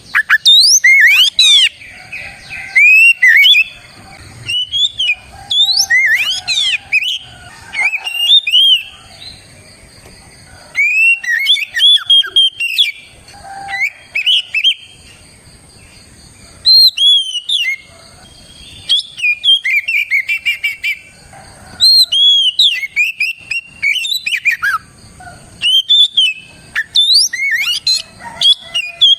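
Oriental magpie-robin singing vigorously: loud phrases of rapid sweeping whistles and chirps, each lasting a second or so, with short pauses between them.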